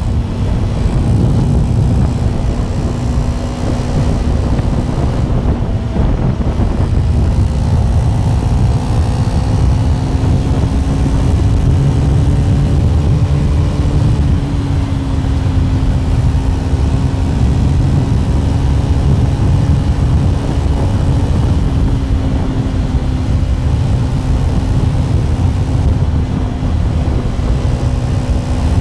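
KTM 390 Duke (third generation) single-cylinder engine running at a steady cruise, its note drifting only slightly up and down, over a heavy low rumble of wind on the microphone.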